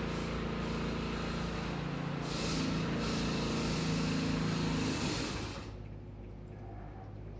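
A motor vehicle's engine running with a steady low hum, its noise falling away about five and a half seconds in.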